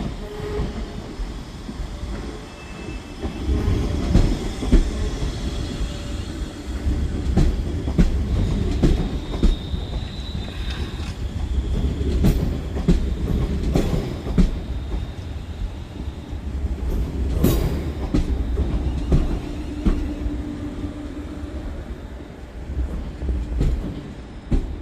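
A train running past, its wheels clicking and clattering over rail joints and points under a heavy rumble, with a thin high wheel squeal about ten seconds in.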